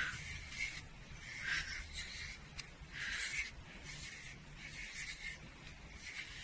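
A small pet comb drawn through a cat's fur in repeated soft, rasping strokes, roughly one to two a second.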